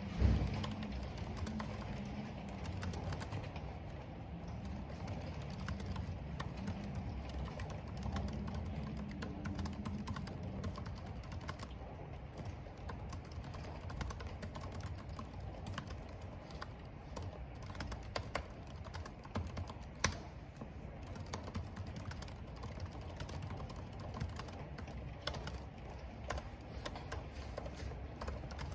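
Computer keyboard being typed on, a steady patter of keystrokes, over a low steady rumble of wind and rain. A single louder knock comes just after the start, and a sharper click about two-thirds of the way through.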